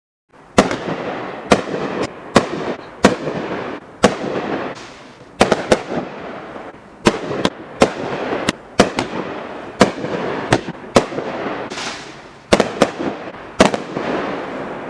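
A 200-gram, 25-shot consumer fireworks cake firing: starting about half a second in, a series of about twenty sharp bangs, one or two a second, with a crackling hiss between them.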